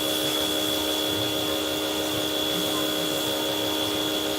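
Pressure washer running steadily, a constant motor hum with a high whine.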